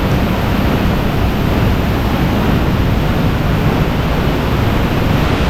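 Pagsanjan Falls' waterfall close up: a loud, steady rush of falling water, heard from behind the curtain of the falls.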